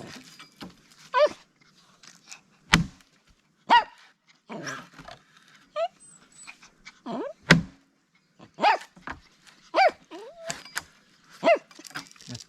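A dog barking about six times, short high yelping barks, while an axe head hammers a wooden wedge into a log with two sharp knocks, about three seconds and seven and a half seconds in.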